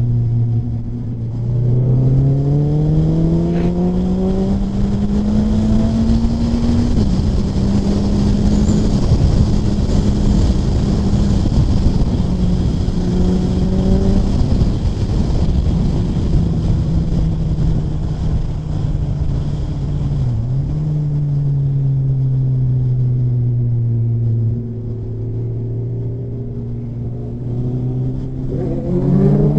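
Suzuki Hayabusa's inline-four engine pulling hard from about a second in, its pitch climbing, with two upshifts at about seven and fourteen seconds. It then cruises with the revs slowly falling off before it accelerates again near the end, over steady wind rush.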